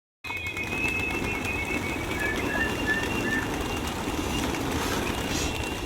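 Steady low outdoor rumble with faint, thin, high whistling bird notes, including a run of four short chirps about two to three seconds in.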